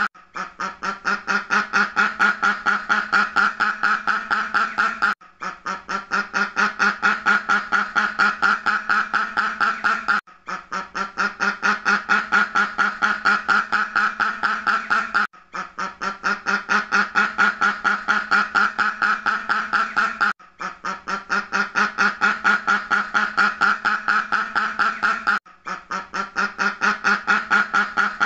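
Duck quacking in a fast, even run of quacks, several a second. The run breaks off briefly about every five seconds and starts again the same way: one short recording played over and over on a loop.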